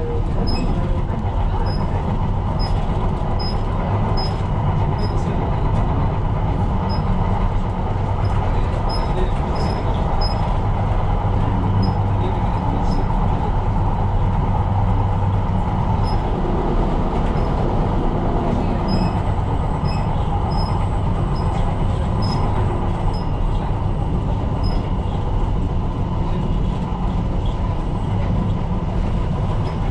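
Tyne & Wear Metro light-rail train running along the track: a steady low rumble of wheels and motors. Brief high-pitched ticks and squeaks are scattered through it.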